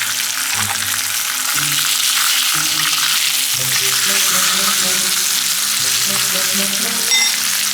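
Food sizzling steadily in hot oil in a pan, a dense hiss.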